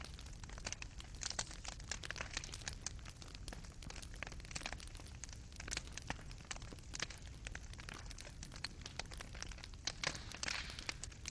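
Fireplace fire crackling: burning charcoal popping and snapping in quick, irregular clicks over a low steady rumble, with a louder cluster of pops near the end.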